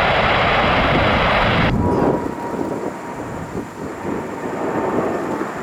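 Air-band radio static hiss, a squelch tail after a tower transmission, for about a second and a half before it cuts off suddenly; then a low, uneven jet aircraft rumble.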